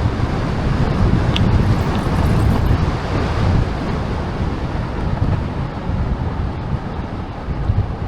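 Wind buffeting the microphone of a camera riding along on a moving bicycle: a steady, low, noisy rush with no let-up.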